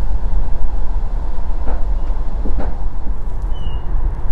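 Running noise of an NDJ3 diesel push-pull train heard inside the passenger carriage at about 88 km/h: a loud, steady low rumble from wheels and track, with two faint knocks a little under a second apart.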